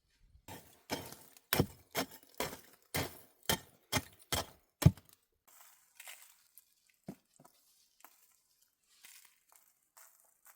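A run of about ten sharp knocks in quick succession, roughly two a second, the last one the loudest, followed by fainter scattered clicks and crackles.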